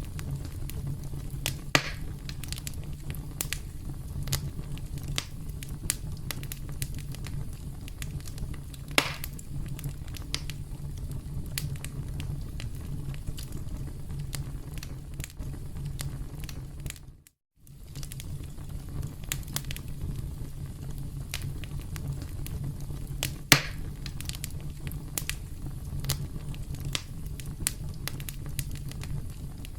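Wood campfire crackling and popping: a steady low rumble of flames under many small sharp crackles, with a few louder pops. The sound drops out completely for a moment a little past halfway, then resumes.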